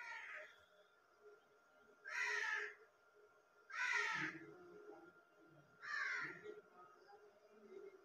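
A bird calling four times, each call under a second long, about two seconds apart.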